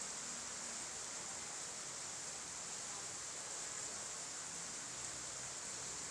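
Faint, steady hiss of rain falling, brightest in the high register.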